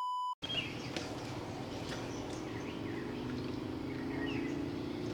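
A steady 1 kHz censor bleep cuts off suddenly about half a second in, followed by outdoor background noise with faint bird chirps and a low steady hum.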